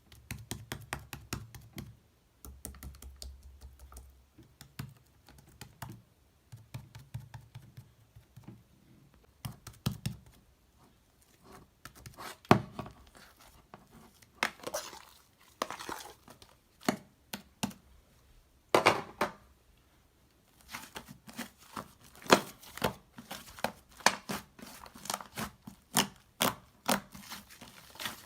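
Paper and plastic stationery handled by hand: crinkling, short tearing or peeling strokes and light clicks and taps, coming in irregular bursts with the loudest strokes in the second half.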